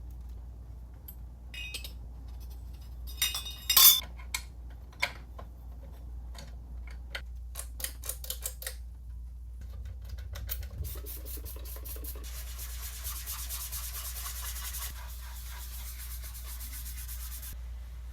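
Ceiling fan parts being handled at the bench: several sharp clinks and knocks, the loudest a little under four seconds in, a quick run of small clicks, then about five seconds of steady rubbing from about twelve seconds in, as when a part is wiped or scrubbed clean.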